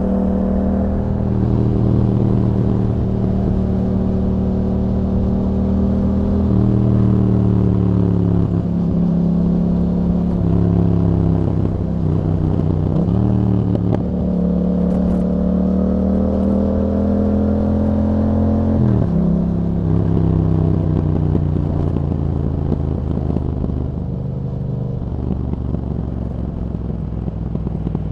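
2021 Yamaha MT-07 parallel-twin engine running through an Akrapovič exhaust with a DB killer while riding, the revs shifting up and down several times. Midway the revs climb steadily for about five seconds, then drop abruptly, and over the last few seconds the engine runs lower and a little quieter.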